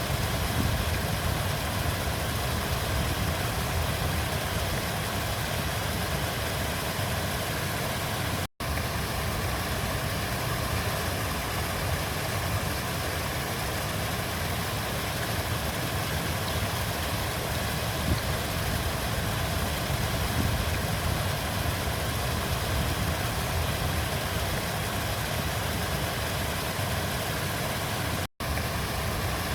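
River water flowing in a steady rush with a deep low rumble. It cuts out for an instant twice, about eight seconds in and near the end.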